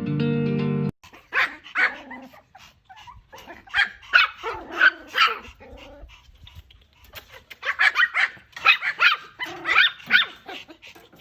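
A guitar music intro cuts off about a second in. A dog then barks repeatedly in three short volleys of sharp barks with brief pauses between them.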